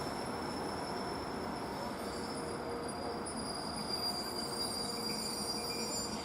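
ER2 electric multiple unit running past at speed: steady noise of wheels on rails with thin high-pitched tones above it, which stop near the end.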